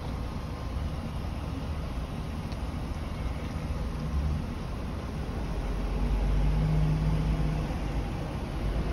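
Car engine idling with a steady low rumble; a low hum swells louder for a couple of seconds about six seconds in.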